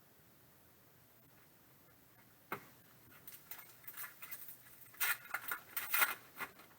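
Trading card packs and cards being handled: a sharp tap about two and a half seconds in, then a run of quick paper-and-foil rustles and slides that get busier near the end.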